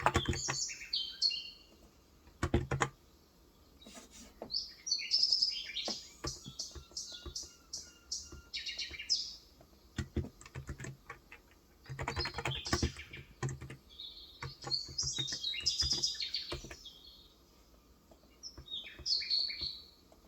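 Small birds chirping in repeated bursts of high, quick twittering. Between and under the calls come scattered keystrokes and short runs of typing on a Cox Endeavor electro-capacitive (contactless, 35 g) tenkeyless keyboard.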